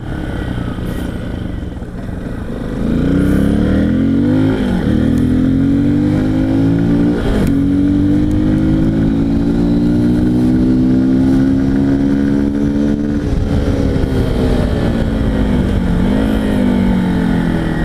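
Honda Bros 160's single-cylinder engine being ridden, running with its air-intake snorkel removed from the air box: it picks up speed through the gears with two brief dips at gear changes, holds a steady pitch while cruising, eases off and then rises again near the end.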